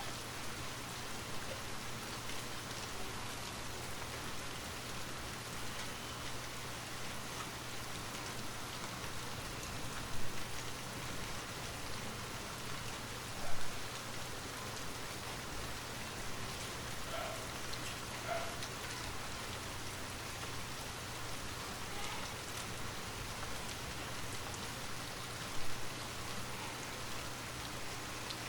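Steady rain falling, an even hiss of drops on a surface with a low steady hum beneath. Three brief louder sounds stand out, at about ten seconds, thirteen seconds and near the end.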